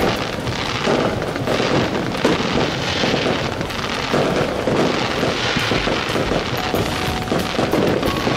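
Fireworks going off in a rapid, unbroken string of bursts and crackles.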